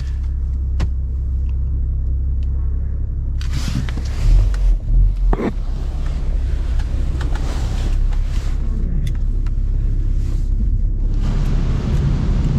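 An automatic car wash heard from inside a car's cabin: a steady low rumble, with louder rushing bursts about four to five seconds in and a steady rushing noise from about eleven seconds on.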